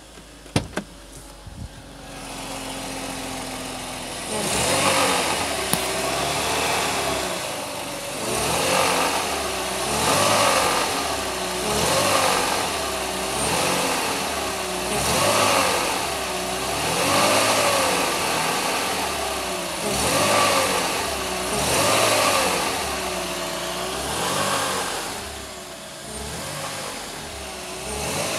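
Cold BMW E46 320i inline-six repeatedly revved up and down, about once every two seconds, through the 1,700–2,400 rpm band where it makes an abnormal noise only while cold; the owner links the noise to the timing chain tensioner. A sharp click sounds about half a second in.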